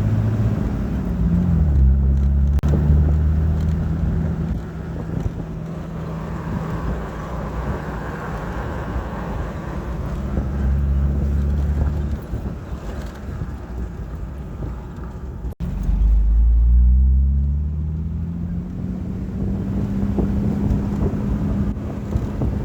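Jeep Wrangler TJ exhaust through a Magnaflow glasspack muffler, heard from inside the open cabin while driving. The engine note pulls up under acceleration in several low, loud surges, then drops as gears are shifted by hand.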